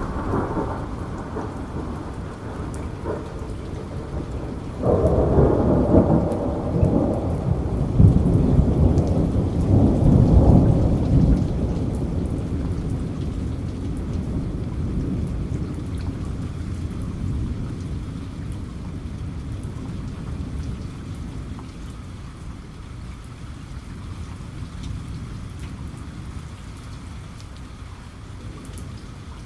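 Steady heavy rain with a thunderclap: a low rumble breaks in sharply about five seconds in, swells over the next several seconds and then rolls away slowly while the rain goes on.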